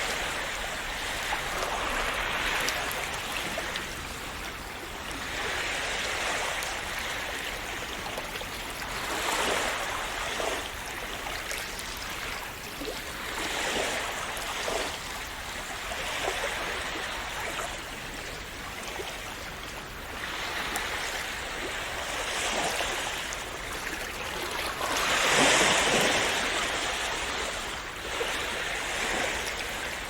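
Small sea waves washing in and splashing, swelling and fading every few seconds, with the biggest wash about 25 seconds in.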